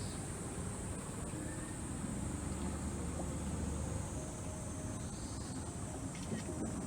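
Small tour boat's motor running steadily under way, a low rumble with a steady high hiss over it.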